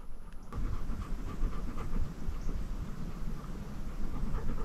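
Labrador retriever panting hard right at a chest-mounted camera microphone, a quick, steady run of breaths.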